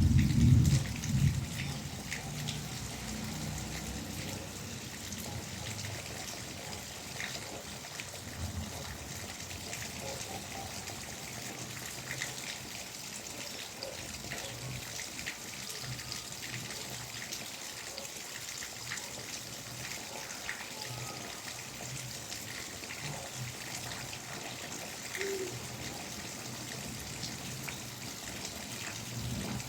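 Rain falling steadily, with water trickling and small drops ticking throughout. A loud low bump comes in the first second or so.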